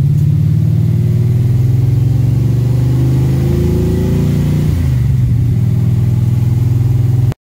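1955 Chevy's engine running under way, heard from inside the cabin. The engine note rises between about three and four and a half seconds in, then drops back, and the sound cuts off suddenly near the end.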